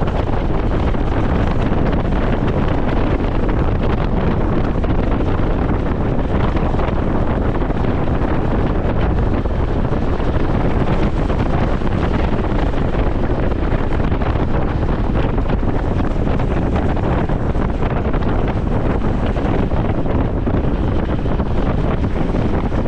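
Steady wind rushing over the microphone of a camera on a moving Honda CT125 Hunter Cub, with the motorcycle's single-cylinder engine and road noise mixed in underneath.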